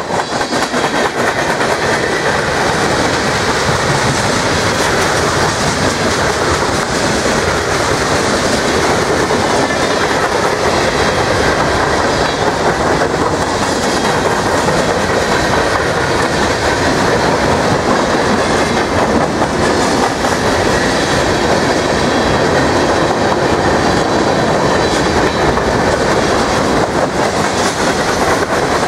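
Mixed freight cars of a passing manifest train (gondolas, tank cars and covered hoppers) rolling by: loud, steady noise of steel wheels on the rails, clattering over the track.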